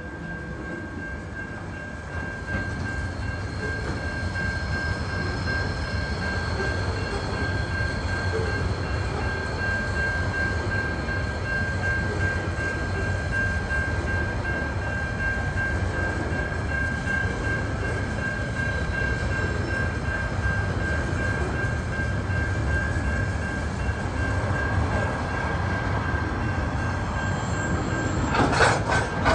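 Freight train's container and log wagons rolling past: a steady rumble of steel wheels on rail, with a steady high-pitched tone running over it. A few sharp clanks come near the end.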